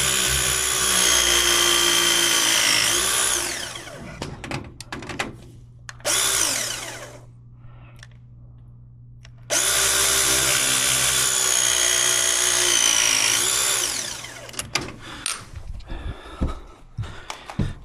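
Battery-powered tool motor running in two bursts of about four seconds, each dipping in pitch near its end under load before winding down, with handling knocks in between.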